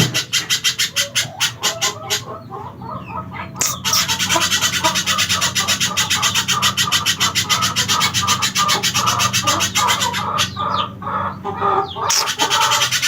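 Spiderhunter (pijantung) calling: a rapid, steady string of sharp repeated chips, broken off twice for a second or two.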